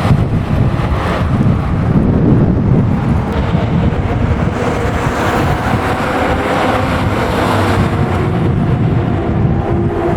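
A car engine running steadily, with wind buffeting the microphone.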